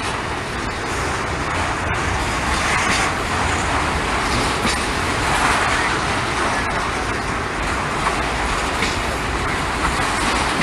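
Norfolk Southern freight train rolling past, its cars making a steady rumble and rushing noise.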